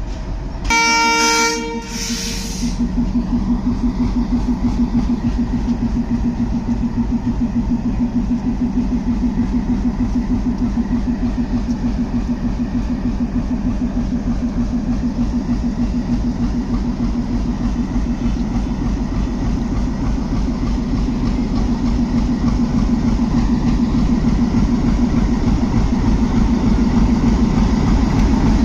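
The Moitri Express's diesel locomotive sounds its horn once, for about a second and a half, shortly after the start. Then the train pulls out of the station: a steady, rapidly pulsing rumble of engine and wheels that grows slightly louder near the end.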